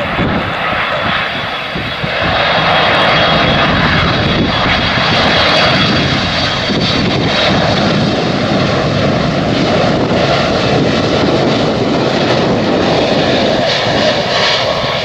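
Boeing 767-300 freighter's twin jet engines running loud as it comes in to land, getting louder about two seconds in and then holding steady, with a faint high whine early on.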